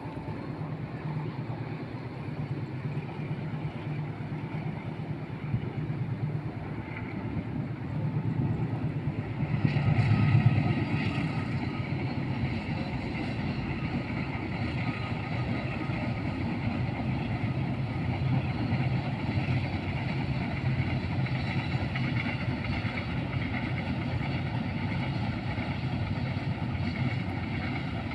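Train running, a steady low engine hum with rail noise, growing louder about eight to ten seconds in and then holding steady.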